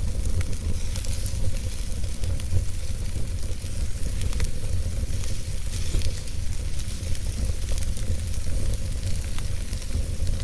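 Wood fire in a fireplace crackling, with frequent small irregular pops and snaps over a steady hiss and a low rumble.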